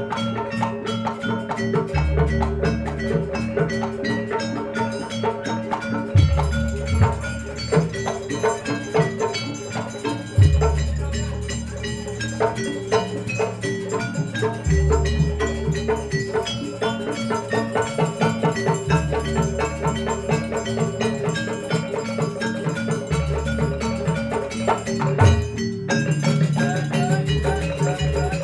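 Javanese gamelan music accompanying a barong dance: metallophones ring out fast repeated notes over drumming, with a deep low stroke about every four seconds.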